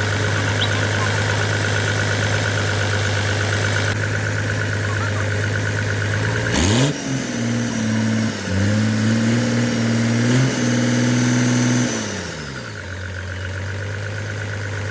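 Rebuilt road roller diesel engine running at a steady idle, then revved up about halfway through with a brief sharp click, held at higher speed with a couple of small dips, and slowed back down to idle near the end.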